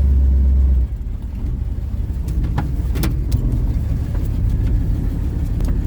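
1940 Ford pickup hot rod driving over a rough, greasy dirt road: a steady low engine and road rumble, much heavier for about the first second, with a few sharp knocks and rattles about halfway through.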